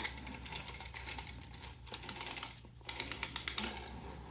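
Carriage of a 3D-printed flatbed knitting machine pushed across the needle bed, the needles clacking through it in a run of rapid clicks. A sharper, quicker burst of clicks comes about three seconds in.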